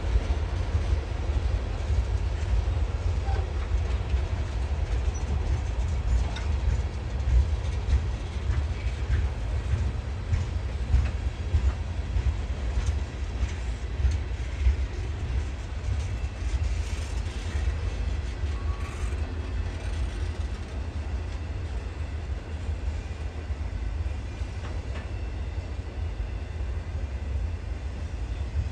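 Freight train rolling past, a steady low rumble of the cars with faint clicks from the wheels.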